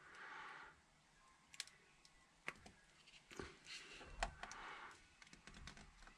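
Faint clicks and taps of small parts being handled at a workbench, with a few short soft rustles; the sharpest tap comes a little past four seconds in.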